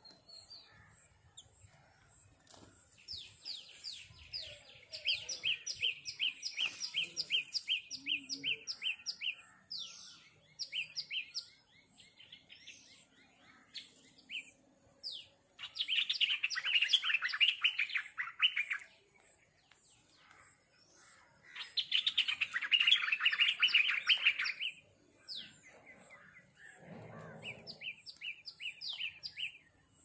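Small birds chirping: bouts of rapid, evenly repeated high notes alternating with denser, harsher chattering. A brief low rustle comes near the end.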